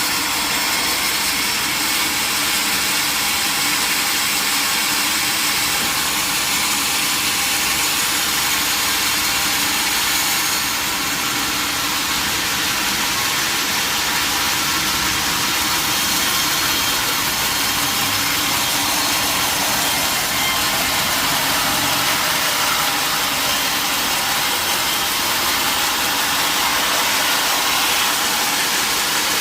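Sawmill machinery running steadily, a loud, even noise that shifts slightly in its highest part about ten seconds in.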